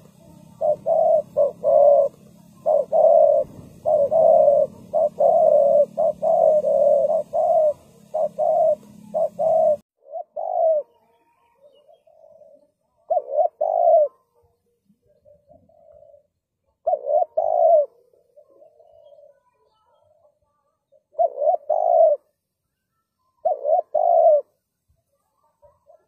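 Spotted dove cooing over and over, in repeated coo phrases. For about the first ten seconds the coos come close together over a low steady hum that stops abruptly; after that, louder phrases come every few seconds with softer coos between them.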